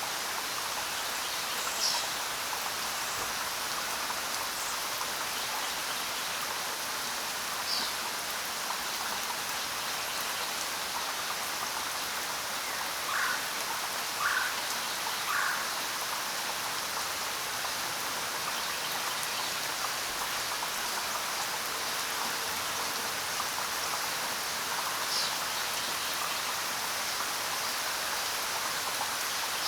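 Steady rain falling, with a few short bird chirps over it, and three calls about a second apart midway through.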